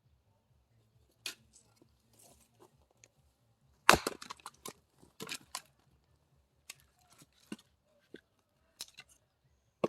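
Axe splitting firewood: one hard, sharp strike about four seconds in, followed by a quick run of cracks and knocks as the wood splits and the pieces fall, with scattered lighter knocks of wood before and after.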